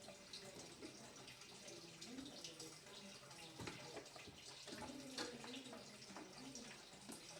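Faint water running and splashing, with a few small knocks scattered through it.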